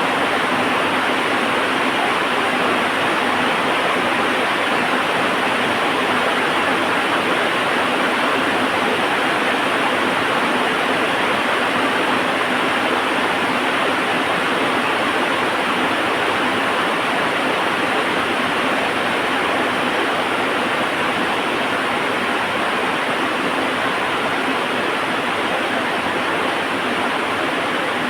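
Heavy rain falling steadily, a dense, even hiss that does not change.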